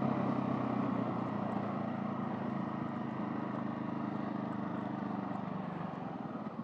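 Husqvarna 701 Supermoto's single-cylinder engine running steadily under the rider, getting gradually quieter as the bike slows down to stop.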